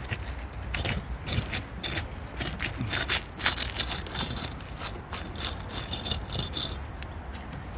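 Hatchet bar scraping and prying under asphalt shingles to break their adhesive seal strips, a run of irregular scrapes and crackles.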